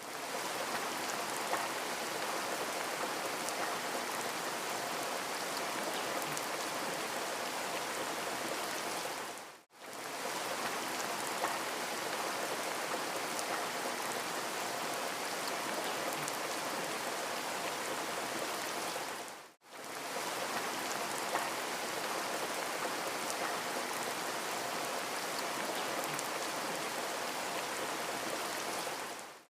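Rain falling, a steady even hiss with a few faint drop ticks. About every ten seconds it dips to silence for an instant and comes straight back, twice, at the joins of a short looped rain recording.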